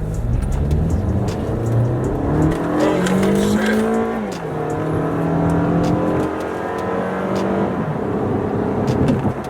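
Toyota Camry XSE accelerating hard, heard from inside the cabin: the engine note climbs steadily with the revs, drops sharply at a gear change about four seconds in, then holds steady and eases off near the end.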